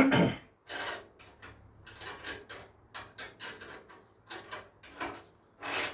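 Small spanner working loose an exhaust clamp bolt: a run of short, irregular metallic clicks and scrapes, with a louder knock right at the start.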